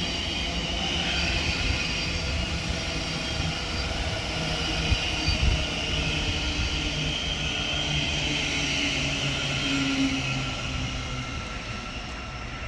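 Thameslink Class 700 electric multiple unit running into the station with a steady rumble and whine.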